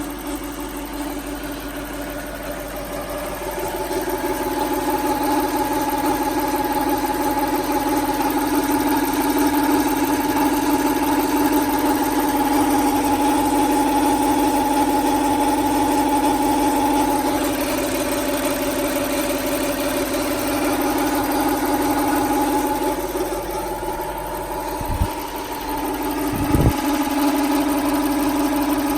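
Lexus SC400's 1UZ-FE 4.0-litre V8 idling steadily, with the noise that the owner places in the top end of bank 2. The timing belt, water pump, idlers and pulleys are all new, so the noise does not come from them. The engine gets a little louder a few seconds in, and there are two short low thumps near the end.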